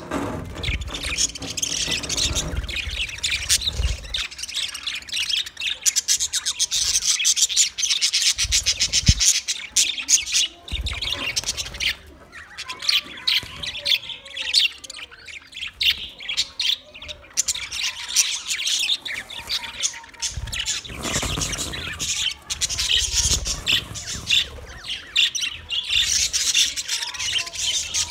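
A flock of budgerigars chirping and chattering continuously, many birds at once, with rapid warbling and occasional squawks, plus a low rumble in places.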